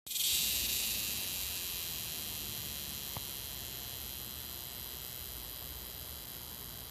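Cicada song: a loud, steady, high-pitched buzz that holds on without a break and eases off only slightly.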